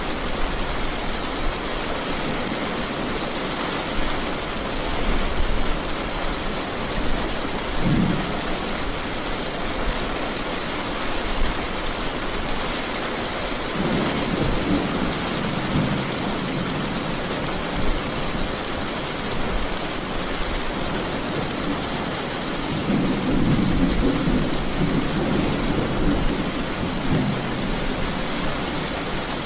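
Steady heavy rain with thunder rumbling low several times: a short rumble about eight seconds in, and longer rolls around the middle and again near the end.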